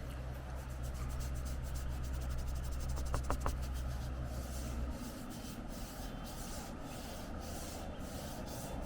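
Watercolor pencil rubbing across synthetic Yupo paper in many quick repeated strokes, over a steady low rumble of wind on the microphone.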